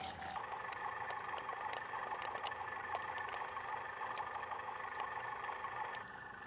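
Toy remote-control drift car running on its roller (mecanum-style) wheels: small electric motors whine steadily, with light clicking and rattling, and most of the sound drops away near the end.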